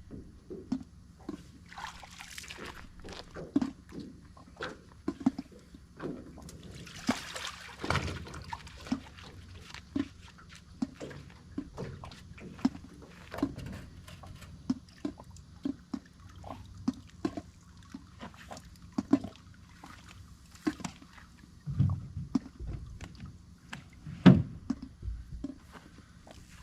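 Water sloshing and splashing around an aluminum jon boat, with irregular knocks and clunks and a couple of heavier thumps near the end.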